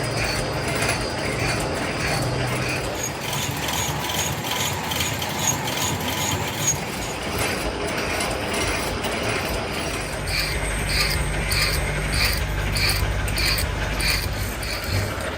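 Workshop machinery running steadily over a low hum, with a regular metallic click about twice a second, typical of a rotating machine-shop machine working a crankshaft.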